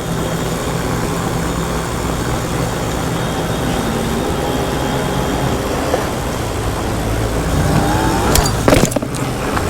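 Road traffic running steadily, with a vehicle accelerating in a rising pitch near the end, followed by a couple of sharp clicks.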